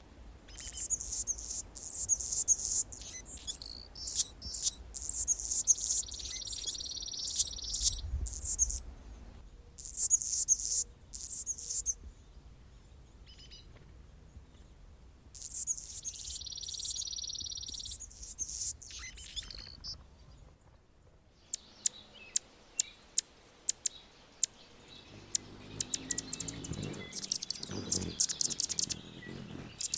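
Male Anna's hummingbird singing: high, scratchy squeaky notes with a dry buzzy phrase, in two bursts, then a run of single sharp ticks in the second half.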